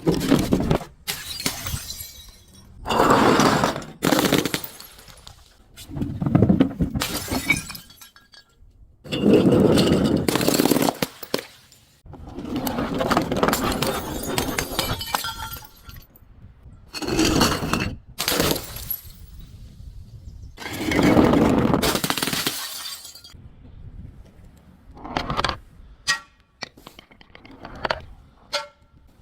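Glass being crushed and shattered in about seven separate crunching bouts, each lasting a second or more, with smaller sharp cracks and tinkles near the end.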